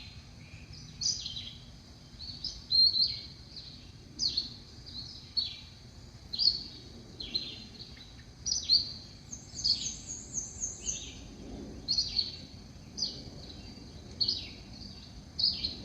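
Songbirds singing: short high chirping phrases repeated about once a second, with a quick run of very high notes near the middle.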